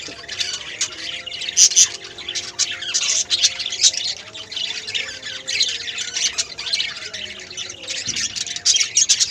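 Many lovebirds calling at once: a steady din of shrill squawks and chirps that overlap without pause.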